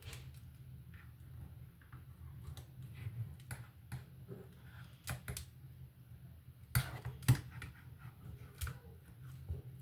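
Lego bricks clicking and clattering as they are handled and pressed together: a scatter of sharp clicks, the loudest pair close together about seven seconds in, over a low steady hum.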